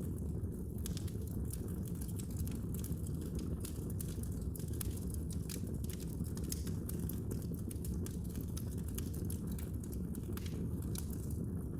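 Wood fire burning in a fireplace, crackling with a steady run of small, irregular pops over a constant low rumble.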